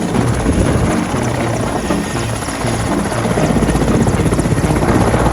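Mil Mi-17 helicopter running close by: the steady rapid chop of the main rotor over the whine and hiss of its turbine engines, growing a little louder about halfway through.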